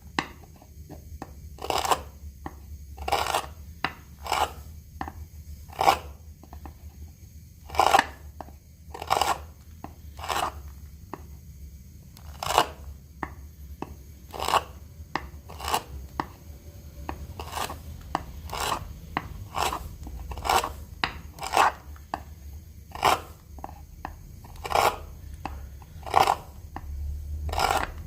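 Hand tool working mulberry wood in repeated, irregular strokes, roughly one a second, over a low steady hum.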